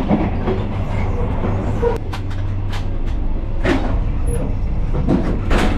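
Passenger train carriage running on the line, heard from the gangway between carriages: a steady low rumble with several sharp clanks and knocks spread through it.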